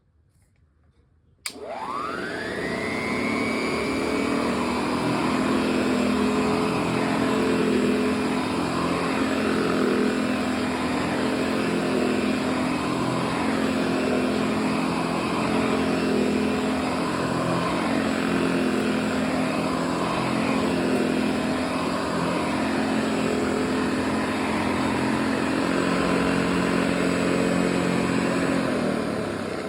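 A 1926 Hoover Model 700 upright vacuum cleaner, with its motor freshly serviced and agitator bearings greased, is switched on with a click about a second and a half in. Its motor whines up to speed and then runs steadily with a low hum. It is switched off near the end and begins to wind down.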